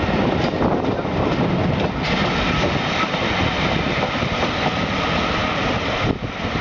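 A train hauled by the Peppercorn A1 Pacific steam locomotive Tornado rolls past with a steady rumble and scattered clicks from its wheels. The sound cuts off abruptly near the end.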